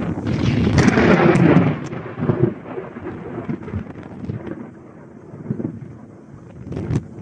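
A thunderclap rumbling during a windstorm. It swells about half a second in, peaks over the next second or so, then rolls away over several seconds, with wind on the microphone and a few sharp crackles near the end.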